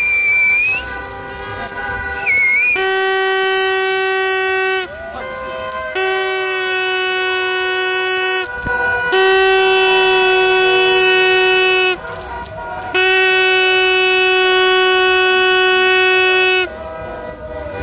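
A car horn sounding in four long, steady blasts of about three to four seconds each, with short gaps between them: celebratory honking in a car parade.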